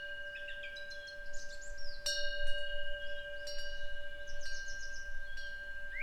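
A Buddhist temple eave wind bell (pungyeong) rings on with a long metallic tone and is struck again by its clapper about two seconds in and once more a little later. Small birds chirp in quick series between the strikes.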